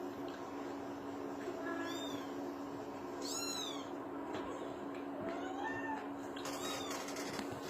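A kitten mewing about five times in short, high-pitched, arching calls, the loudest about three and a half seconds in, over a steady low hum.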